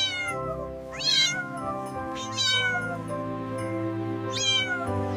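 A kitten meowing four times in short, high calls that fall in pitch, over steady background music.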